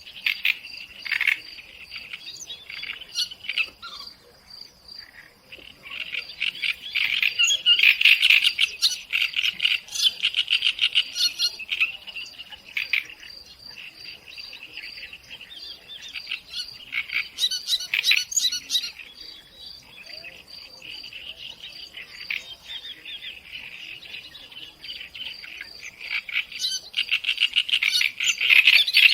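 Birds chirping and singing in bursts over a steady, evenly pulsing insect trill. The bird song is busiest from about six to twelve seconds in and again near the end.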